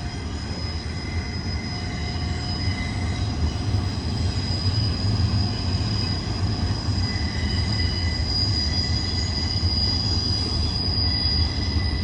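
BNSF double-stack intermodal freight train rolling past on a curve: a steady low rumble of wheels and cars, with thin, high-pitched wheel squeal that comes and goes.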